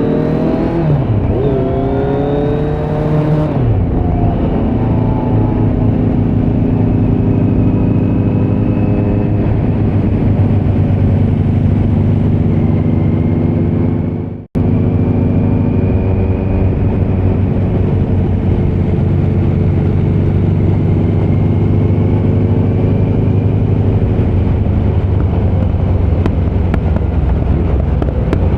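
2018 Kawasaki Z900's inline-four running through a Leo Vince muffler on stock headers with no dB killer, heard from the saddle. In the first few seconds the revs rise and drop back a couple of times as it shifts, then it holds a fairly steady pitch under load, cutting out for an instant about halfway.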